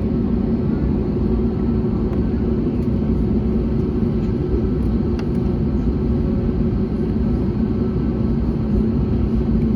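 Airbus A321neo with Pratt & Whitney PW1100G geared turbofan engines, running as a steady low rumble with a constant hum.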